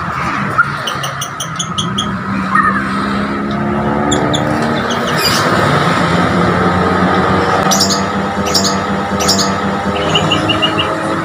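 Vehicle engine noise running throughout, its pitch slowly shifting as traffic passes, with short bursts of high, rapid chirping song from a Bornean white-rumped shama cutting in several times.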